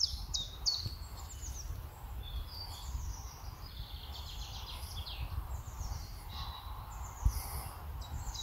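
Small birds chirping and singing in short falling notes over a steady low rumble.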